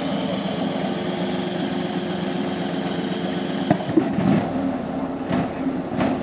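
1/8-scale miniature ride-on train running along its track: a steady engine hum with the rattle of the cars and a few sharp clicks in the second half.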